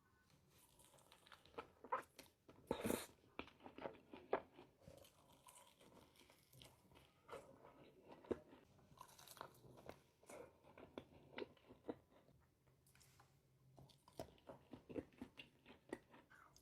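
Crunchy fried chicken being bitten and chewed, with many irregular crisp crunches.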